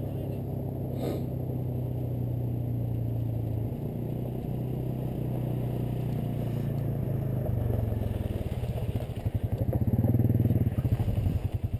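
Dirt bike engine running at a steady pace, then settling into a lower, pulsing chug for the last few seconds.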